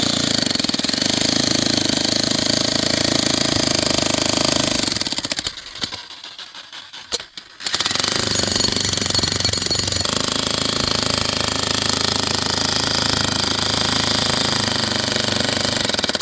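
A motor running steadily and loudly. It cuts out for about two seconds a little before the middle, then runs again.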